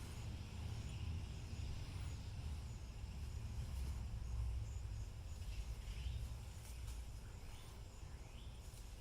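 Outdoor background noise: a steady low rumble, with a few faint high chirps in the second half.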